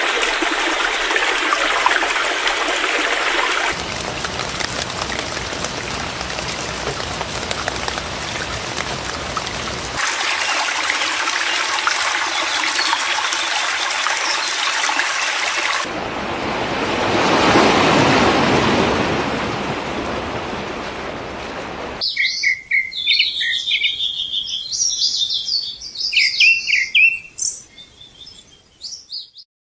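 Rushing water in a few cut-together clips, one of them swelling and falling away like a wave, then small birds chirping and calling for the last several seconds.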